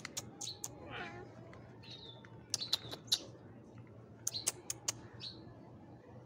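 Bird chirping: short, sharp calls in quick clusters of two or three, with a brief lower, wavering call about a second in.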